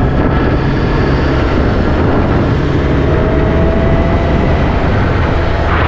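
A vehicle's engine and road noise, running steadily while driving, with a faint steady whine joining about halfway through.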